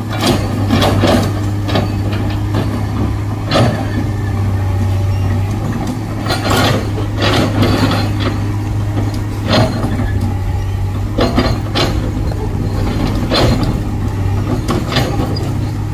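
Excavator engine running steadily, with a dozen or so irregular sharp scrapes and knocks of the bucket's teeth against hard rock as it breaks the rock face.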